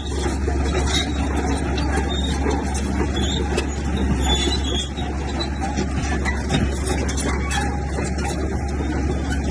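Komatsu bulldozer's diesel engine running steadily with a deep drone, with scattered short metallic squeaks and clanks over it.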